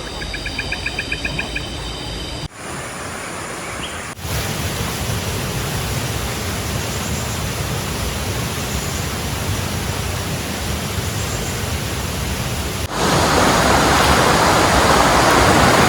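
Heavy rain and rushing river water making a steady roar, cutting abruptly a few times and growing louder for the last few seconds. A fast rhythmic chirping is heard in the first couple of seconds.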